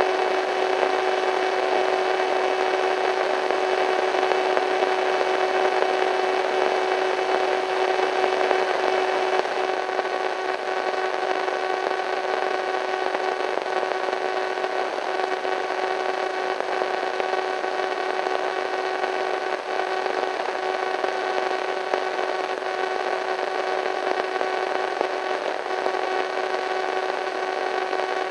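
Radio static: a steady hiss of white noise with several steady humming tones through it, dropping slightly in level about ten seconds in.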